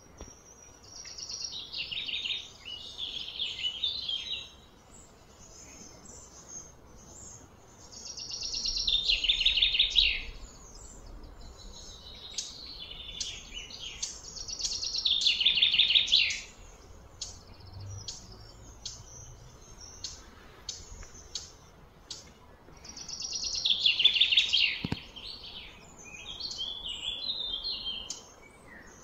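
A songbird singing a loud, fast trilling phrase that falls in pitch, four times about six to seven seconds apart, with short high chirps in between.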